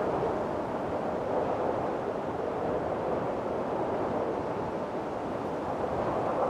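Strong wind blowing in a windstorm, a steady rushing that swells and eases slowly.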